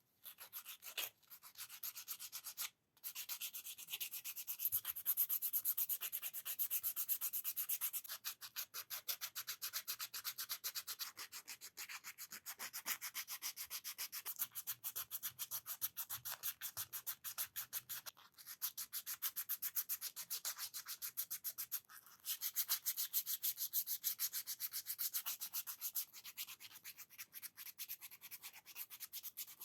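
Jatoba hardwood being hand-sanded with quick back-and-forth strokes, a fast, even hiss that is mostly high in pitch. The strokes break off briefly near the start and again about two-thirds of the way through.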